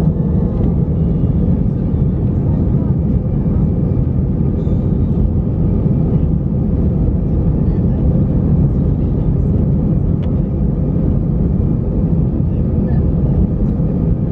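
Steady low rumble inside the cabin of an Airbus A319, from its jet engines and airflow, holding an even pitch and level.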